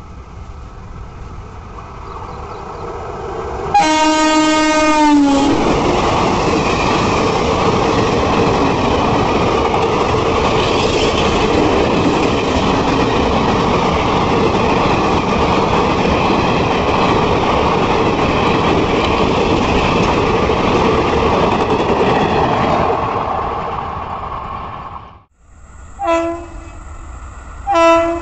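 An Indian Railways locomotive horn sounds once for about a second and a half, and an express train passes loudly for about twenty seconds before fading away. After a sudden break, the horn gives two short blasts near the end.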